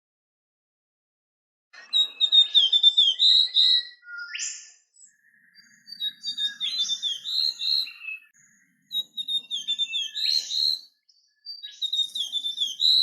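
Rose robin singing: four bouts of quick, chattering high notes mixed with short whistles and trills, separated by brief pauses.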